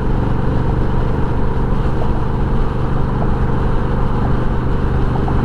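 Honda Rebel 1100's parallel-twin engine running steadily through a Coffman's Shorty exhaust while riding, held at an even pitch without revving.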